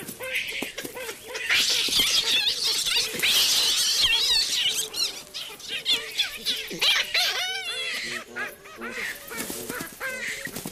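Olive baboons screaming and shrieking in a troop squabble, many high wavering calls at once, loudest in the first half and then thinning to scattered shorter cries.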